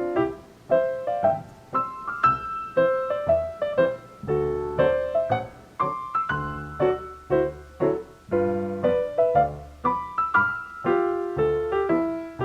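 Background piano music: a gentle melody of separately struck notes, a few notes a second.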